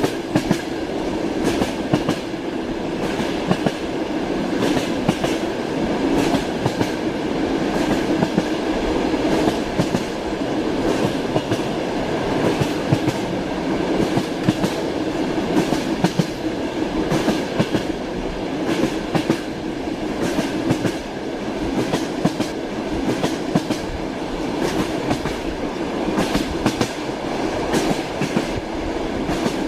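Moving train: a steady rolling rumble with the repeated clickety-clack knocking of the carriage wheels over the rail joints.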